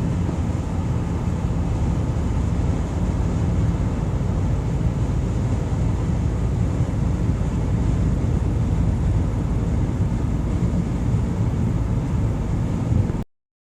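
Steady road and engine noise inside a moving car's cabin, mostly a low rumble. It cuts off abruptly about thirteen seconds in.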